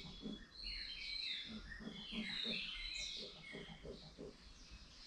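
Several small birds chirping and twittering at once, many short overlapping notes that sweep up and down, with lower repeated pulsing calls underneath that thin out near the end.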